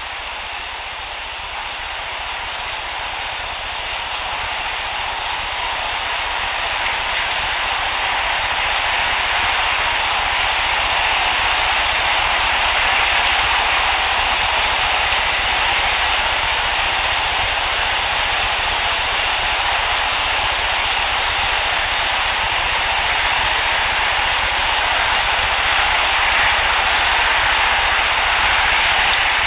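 Steady hiss of a heavily boosted outdoor field recording, slowly getting louder over the first ten seconds or so, with no distinct knocks standing out.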